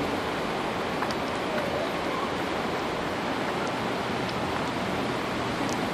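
Big Thompson River in flood, its floodwater rushing with a steady, even noise.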